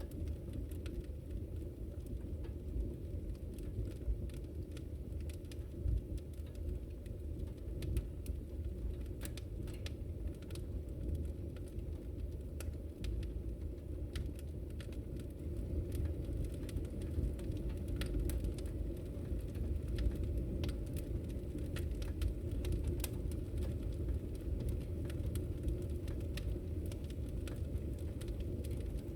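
Wood fire in a fireplace crackling: many small irregular pops and snaps over a steady low rumble of the flames.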